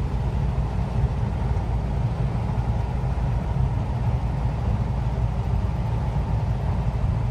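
Steady engine and road rumble inside the cab of a truck driving along the highway.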